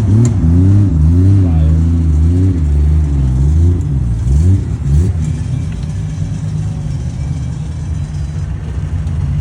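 Car engine at low revs as the car rolls in, its pitch wavering up and down. About five seconds in it settles to a steadier, somewhat quieter low engine note.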